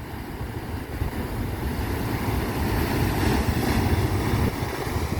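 Ocean waves rushing in, a deep noisy wash that grows louder over the first few seconds.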